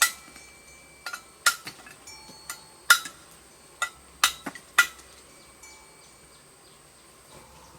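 A series of about ten sharp knocks, each with a brief ringing tone, coming irregularly for about five seconds and then stopping.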